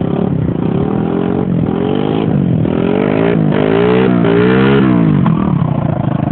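Pit bike's small single-cylinder engine revving up and down several times as its rear wheel spins in wet sand, the bike short of traction.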